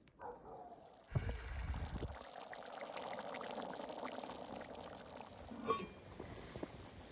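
Soup bubbling at a rolling boil in a cast iron Dutch oven, a steady liquid bubbling with small crackles, starting with a low thump about a second in.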